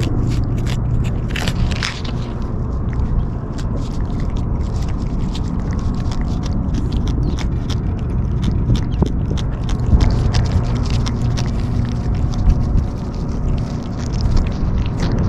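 Stray kittens chewing and smacking at their food close to the microphone, a quick irregular run of small clicks, over a steady low rumble of strong wind on the microphone.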